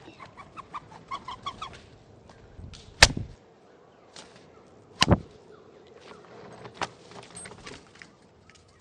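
Birds at a backyard feeder giving short, quick call notes in runs, with two loud sharp knocks about three and five seconds in.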